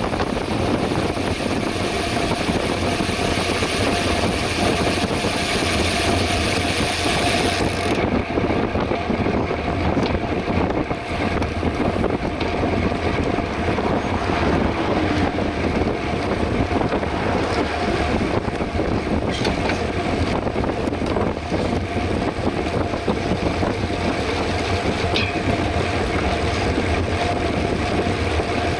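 Wind rushing over the microphone and tyre rumble from a mountain bike riding at speed on a road. The high hiss in the wind noise falls away about eight seconds in.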